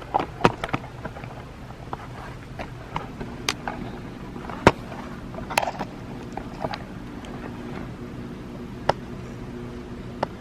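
Scattered clicks and knocks of something being handled, the sharpest about halfway through, over a faint steady hum.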